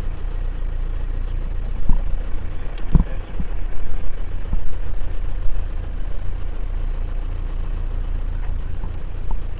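Steady low rumble of a motor vehicle's engine, with a few sharp knocks about two and three seconds in.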